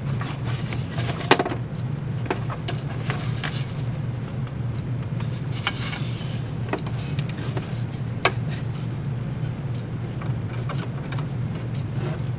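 Steady low mechanical hum, with scattered clicks and knocks from hand work on a wicker basket. The sharpest knock comes about a second in and another about eight seconds in.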